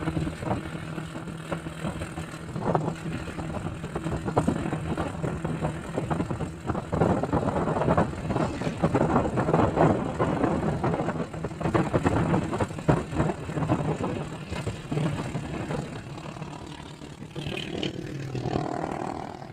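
Vehicle engine running with a steady low hum as it drives along a winding road, with rattles and knocks over the road noise, louder in the middle.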